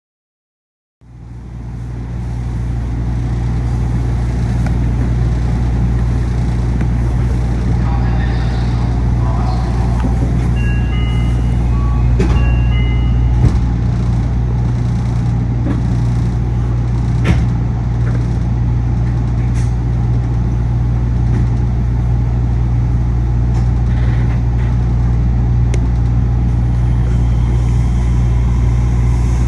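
Steady, loud low hum of a Yui Rail monorail car's air conditioning heard inside the cabin. About ten seconds in, a short electronic chime of several stepped notes sounds, and a couple of sharp clicks follow.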